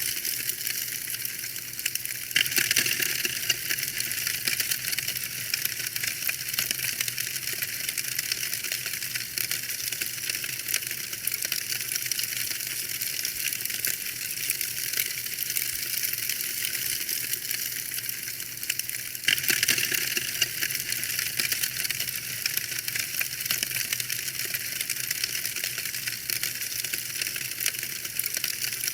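Wood fire crackling: a dense run of small pops and snaps over a steady hiss. It steps up louder and fuller at about two seconds in and again at about nineteen seconds.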